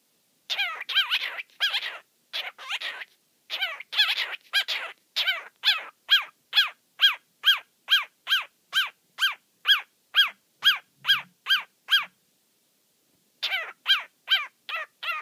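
Cockatiel calling: a few harsh chattering calls, then a long run of short, evenly repeated calls, about two a second, each dipping in pitch. They pause for about a second and a half near the end, then start again.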